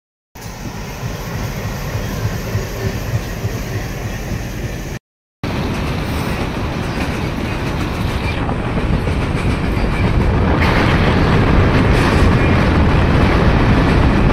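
Passenger train running along the track: a steady rumble and rattle of the coach, getting louder in the second half. It breaks off briefly twice.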